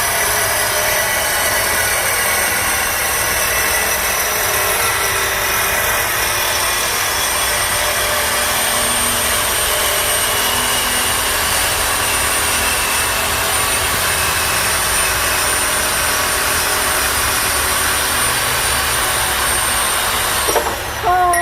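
Power saw cutting through steel exhaust pipe: a steady, loud grinding whine that runs without a break, then stops suddenly near the end.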